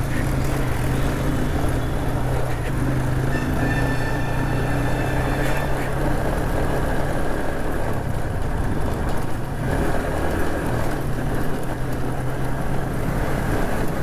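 TVS Apache 180 motorcycle running steadily, with a continuous low engine hum and road noise.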